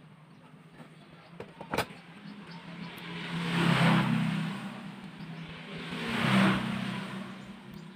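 Two road vehicles passing by one after the other, each swelling up and fading away, over a steady low hum. A single sharp click comes about two seconds in.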